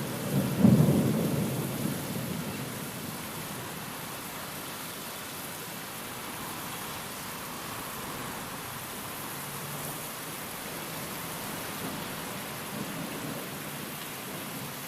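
Steady heavy rain with a rumble of thunder a little under a second in that fades over the next two seconds or so; a fainter low rumble swells near the end.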